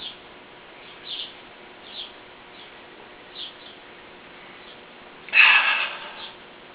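Small birds chirping off and on, short high chirps roughly once a second over a steady low hiss. About five seconds in, a louder breathy rush of air that lasts under a second.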